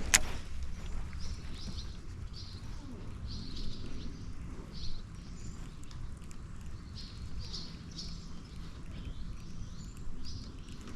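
Small birds chirping, short high calls repeating irregularly about once a second over a low outdoor rumble, with a sharp click right at the start.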